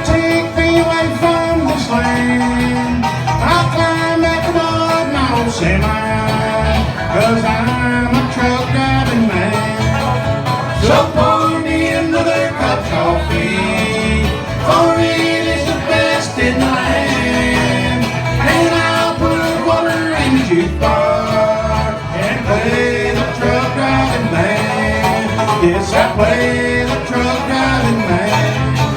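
Bluegrass band playing live, an instrumental break with banjo and guitar picking over a steady bass line.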